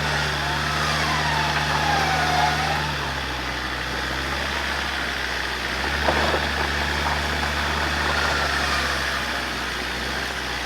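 Off-road 4WD engine idling with a steady low drone; its note shifts slightly a few times. A faint falling whistle-like tone sounds about a second in.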